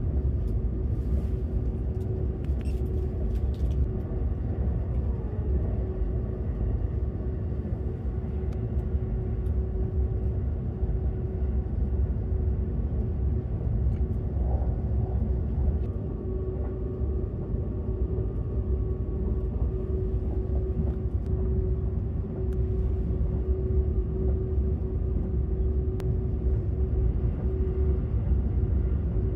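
Cabin running noise of a Seibu 001 series Laview electric limited express train under way: a steady low rumble of wheels on rail with a steady hum running through it.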